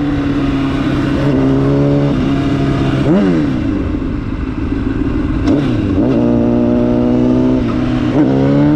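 Honda CBR1000's inline-four engine pulling hard under acceleration, its pitch holding or climbing and then swinging sharply several times as the revs change between gears.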